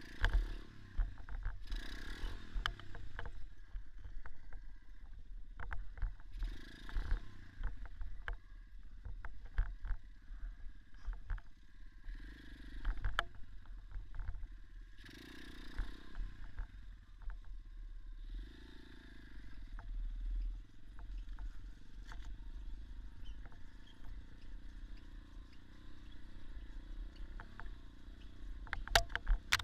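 Dirt bike ridden off-road, its engine heard muffled and swelling in short bursts every few seconds over a steady low rumble. Many short clattering knocks come from the bike over rough ground.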